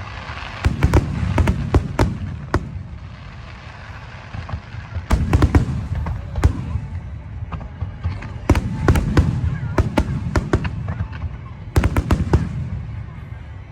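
Aerial fireworks bursting in four volleys of sharp bangs, each volley a rapid cluster of reports, with a deep rumbling boom hanging between them.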